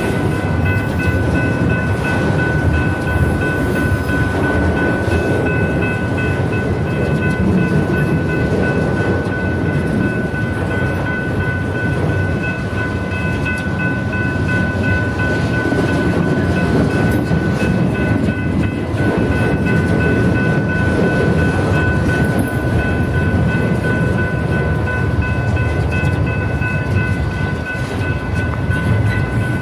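BNSF freight train passing, its wheels and cars giving a steady heavy rumble with a steady high-pitched ringing over it.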